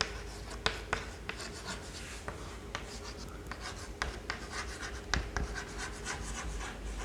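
Handwriting: a run of light, irregular scratches and taps from a writing tool.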